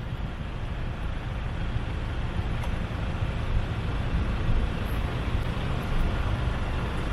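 Road traffic heard from a motorbike waiting at traffic lights: idling engines and steady traffic noise, mostly low-pitched, with no distinct single event.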